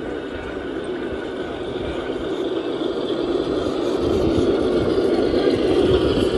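Trucks running in a convoy, a steady mix of engine and rolling noise that grows gradually louder as they come closer.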